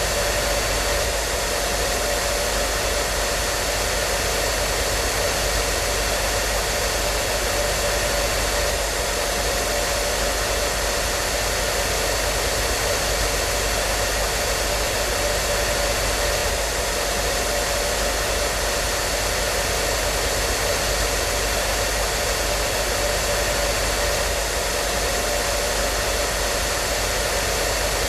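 Hair dryer running steadily: an even rush of blown air with a constant motor hum and a faint steady whine, unchanging throughout.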